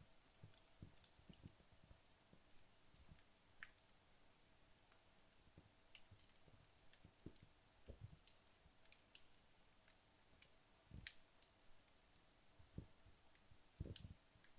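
Wood fire burned down to embers in a fireplace: faint, sparse crackles and ticks, with a few soft low thumps, the loudest cluster near the end.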